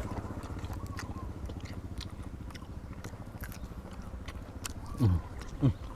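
Close-up chewing and biting with wet mouth clicks, a person eating. About five seconds in come two short, loud sounds that drop quickly in pitch.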